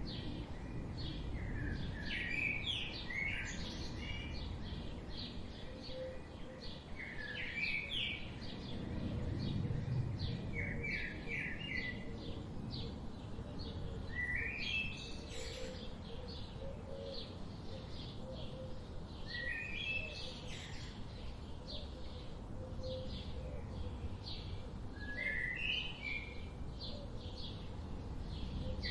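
Songbirds singing: a dense run of quick high chirps, with trilled phrases recurring every few seconds, over a low steady rumble.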